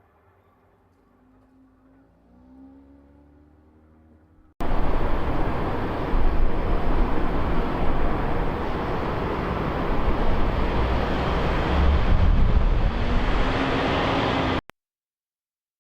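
Loud, steady vehicle noise, a low rumble with hiss, that cuts in suddenly about four and a half seconds in and cuts off abruptly near the end, after faint quiet sound with a few gliding tones.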